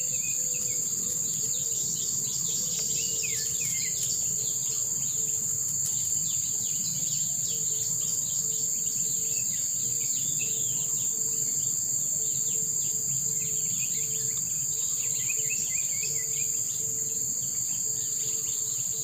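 A steady high-pitched insect drone, crickets or a similar chorus, with scattered short bird chirps over it.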